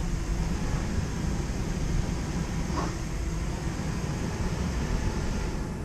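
Bobcat mini-excavator's diesel engine running with a steady low rumble.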